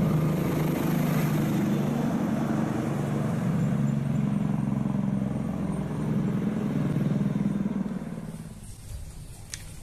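A motor vehicle engine running steadily at a low, even pitch, fading out about eight seconds in.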